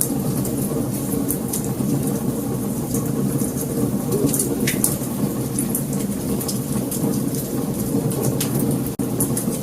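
Wood fire burning: a steady low rush of flames with scattered sharp crackles and pops. The sound cuts out for an instant near the end.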